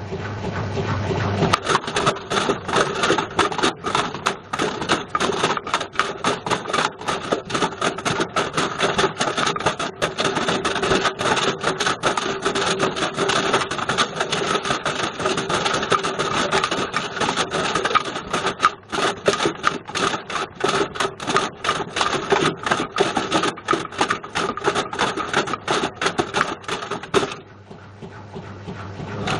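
A Bush VCR807 video recorder tumbling in a turning washing machine drum: a loud, rapid, continuous clatter of hard knocks over a steady motor hum. The clatter eases off near the end.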